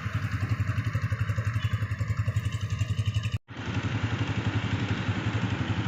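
Honda CD 125 motorcycle's single-cylinder four-stroke engine idling with a steady, rapid, even putter. The sound cuts out for a split second a little past halfway, then resumes unchanged.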